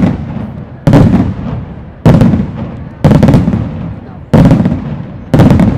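Fireworks aerial shells bursting in quick succession: six loud bangs about a second apart, each sharp onset trailing off over about a second before the next.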